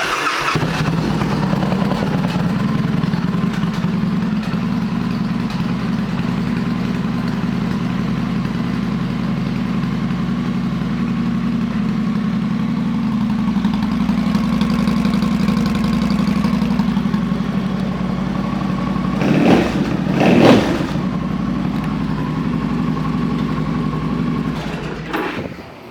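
2007 Victory Kingpin's V-twin, fitted with a Victory Performance exhaust, starting and idling steadily. It is blipped twice in quick succession about two-thirds of the way through, then shut off just before the end.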